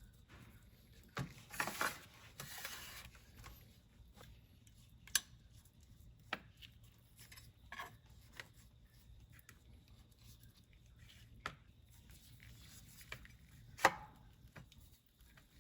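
Light clicks and taps of small hard parts being handled, with a short scraping, rubbing stretch about two seconds in and a sharper click near the end.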